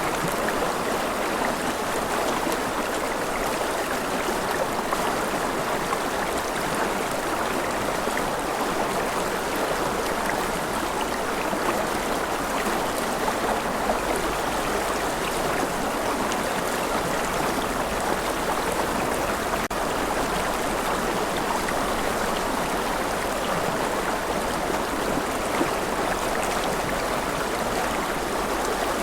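Steady rushing water, an even hiss without breaks or distinct events.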